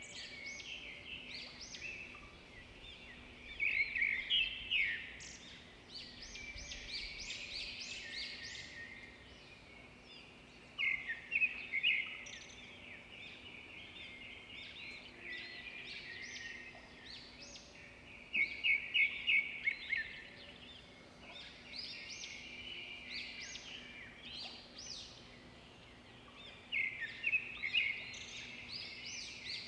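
Swiftlets chirping and twittering, the calls coming in loud bursts about every seven to eight seconds with softer twittering between, over a faint steady hum.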